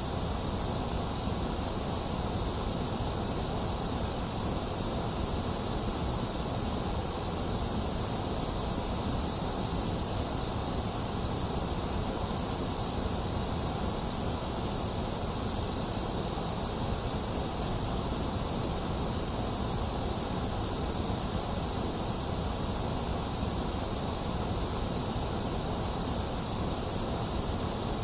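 A box fan running mixed with steady rain, one constant, unchanging hiss and whoosh.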